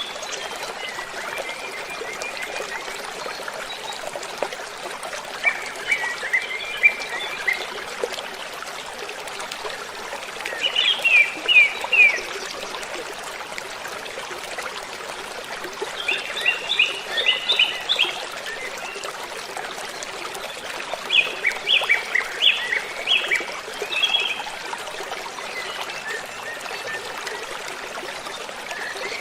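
Waterfall rushing steadily, with a small bird singing over it: about five short bursts of rapid, repeated high chirps, one every few seconds.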